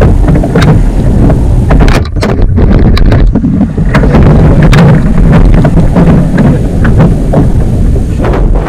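Loud wind rumble buffeting the microphone, with scattered short clicks and knocks.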